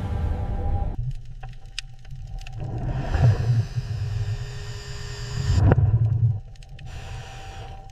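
Low mechanical rumble of deep-sea lifting machinery with a faint steady whine. A surge of hissing rises in the middle and ends in a sharp knock about two-thirds of the way through.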